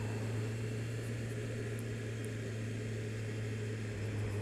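Kawasaki Z750 inline-four motorcycle engine running with a steady low hum, and a light even rush of noise over it.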